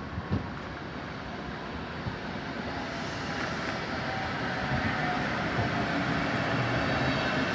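A train approaching, its rumble growing steadily louder, with a steady humming tone coming in about halfway through. A short knock is heard near the start.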